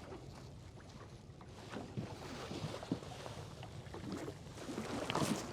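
Faint water sounds and scattered small knocks in an aluminium fishing boat as a caught walleye is released by hand, with a soft rush of water near the end.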